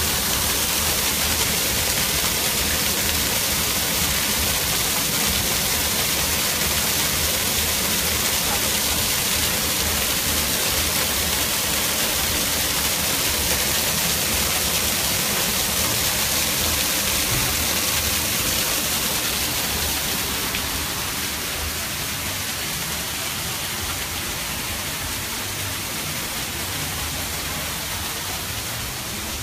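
Waterfall rushing steadily, growing a little quieter about two-thirds of the way through.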